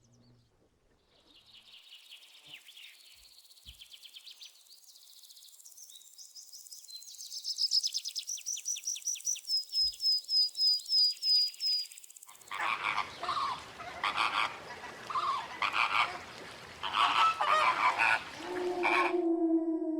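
Animal calls: high, thin chirping and a fast run of repeated high notes, then, from a little past halfway, a string of loud, harsh calls.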